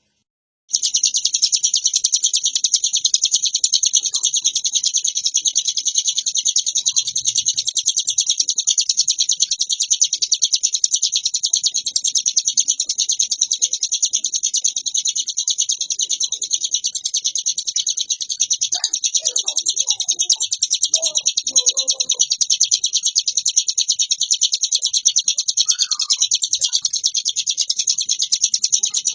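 Ciblek gunung singing: an unbroken, rapid, high-pitched trilling song that sets in about a second in and runs on without pause.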